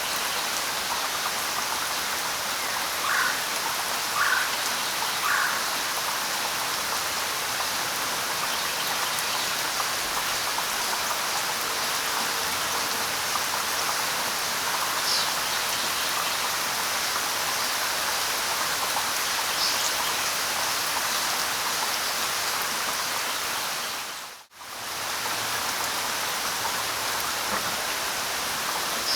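Steady light rain with three short bird calls about a second apart near the start, and a couple of faint, higher bird chirps later on. The sound cuts out for a split second about 24 seconds in.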